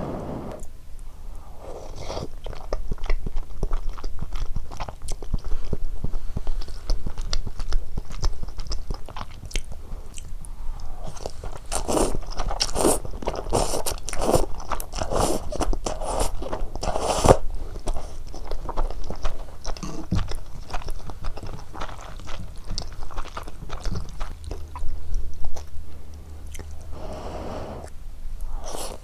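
Close-miked eating sounds: a person chewing and biting into cheese ramyeon and dumplings, with wet, irregular mouth clicks and crunches, busiest about halfway through.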